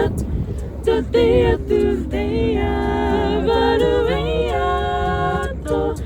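A cappella vocal harmony: several voices singing held chords that change every second or so, with a short click at the very start.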